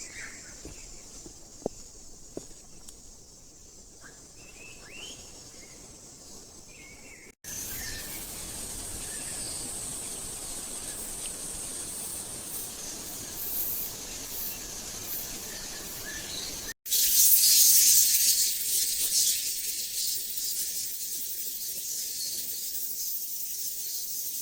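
Rainforest ambience in three spliced sections. First, a high steady insect drone with scattered short bird chirps. After a sudden cut, a steady high insect drone over a haze. After another cut about two-thirds of the way through, a louder, dense high-pitched hiss.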